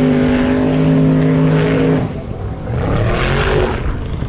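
A vehicle engine held at steady high revs for about two seconds, then revved again briefly about a second later, loud.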